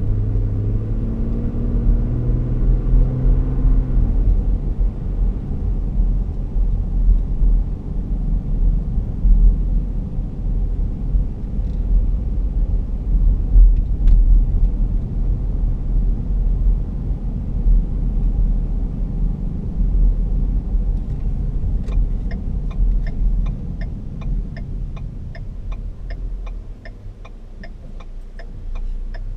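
Cabin rumble of a 2011 Ford Flex V6 driving at low speed, with engine tones rising slightly in the first few seconds. About two-thirds of the way through, a regular ticking starts at about two ticks a second, and the rumble fades as the car slows.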